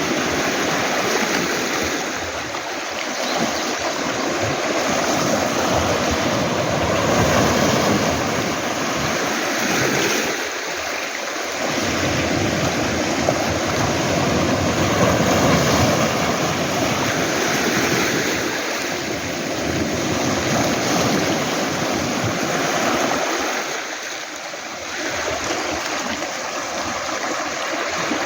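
Sea waves washing onto a beach of round pebbles: a steady rush of surf that swells and eases every several seconds.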